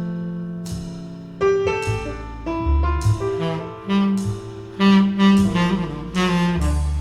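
Recorded jazz ballad played back through ATC SCM 11 bookshelf loudspeakers: a tenor saxophone plays slow held melody notes over piano chords and a walking double bass.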